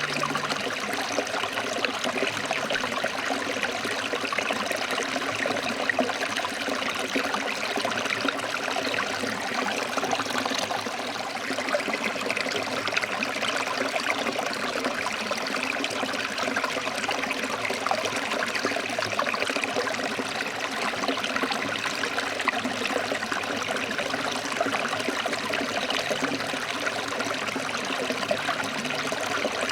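Stream water flowing over rocks, a steady, even rush of moving water.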